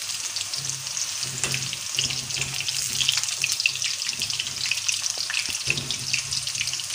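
Sliced bitter gourd deep-frying in hot oil in a black iron wok: a steady, dense crackling sizzle. The pieces are fried light brown and are being lifted out with a slotted spoon, which knocks lightly a couple of times.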